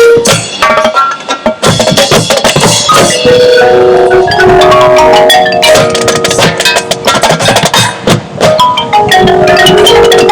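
Marching band show music: many sharp drum and percussion hits with mallet percussion such as marimba, xylophone and chimes, over held pitched notes. It is loud, with brief dips in level about one to two seconds in and again near eight seconds.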